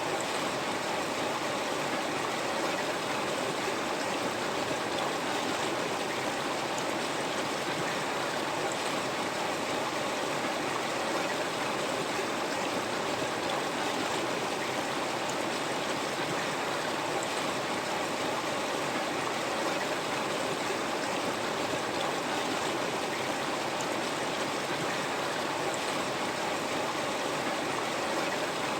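River water flowing steadily over rocks, an even rushing with light burbling.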